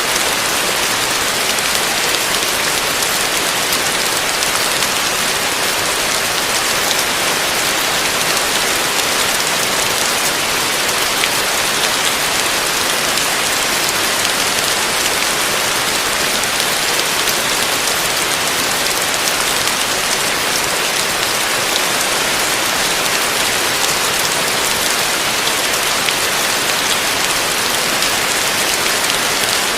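Heavy rain falling steadily: a dense, even hiss of drops with no letup and no thunder.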